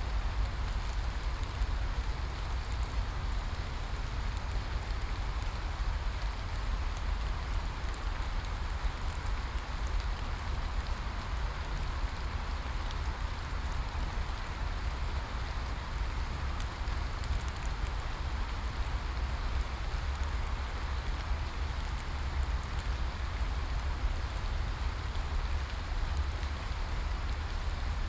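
Steady rain falling: an even hiss of rainfall with faint scattered drop ticks, over a constant low rumble.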